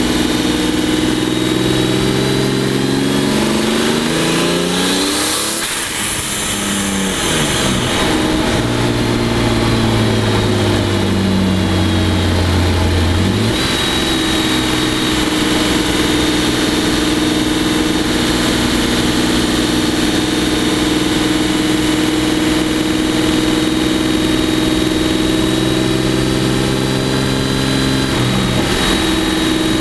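Twin-turbo V12 of a heavily modified 2003 Mercedes CL600 driving. The engine note drops in pitch a few seconds in, then climbs again, changes step about halfway, and holds fairly steady, with a thin high whine over it.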